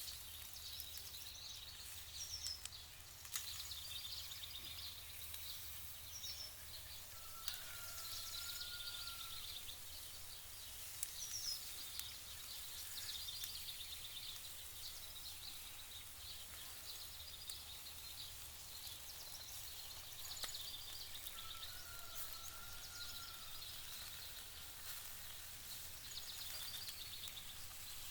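Outdoor nature ambience: a steady insect trill with birds chirping now and then. A bird's slow whistled call rises and falls twice, about 8 and 21 seconds in, and a few sharp clicks sound in the first few seconds.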